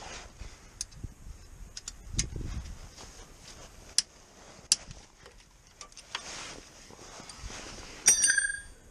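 Scattered clicks and knocks of metal tools and car parts being handled, with a louder metallic clink about eight seconds in that rings briefly with several tones.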